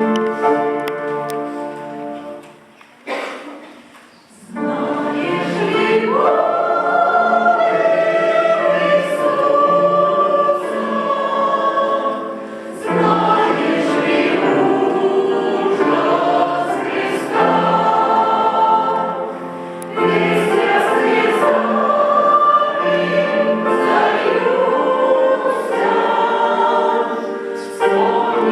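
Church choir singing a hymn in phrases. An opening chord fades over the first few seconds, there is a short break, and the singing sets in about four and a half seconds in.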